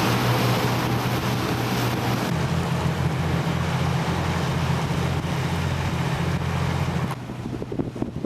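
Boat engine running steadily under a loud rush of wind and water noise; the engine's low note changes about two seconds in and holds until the sound cuts off abruptly near the end.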